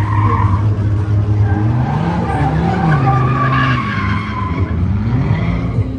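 A drift car's engine revving up and down several times as it slides, with its tyres squealing and skidding.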